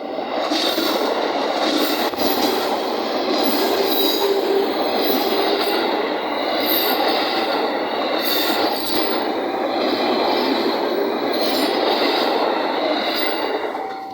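Train passing close by: a loud, steady rush of wheels on rails with high-pitched wheel squeal, easing off near the end.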